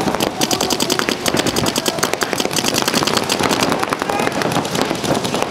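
Paintball markers firing rapid strings of shots, several guns at once. One very fast, even string of shots runs through the first three seconds or so.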